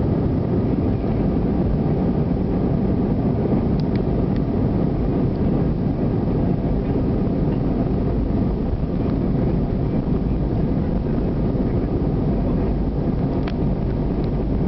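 Airbus A320 jet airliner during take-off, heard from inside the cabin: the engines and rushing air make a steady, even, low rumble, with a couple of faint ticks.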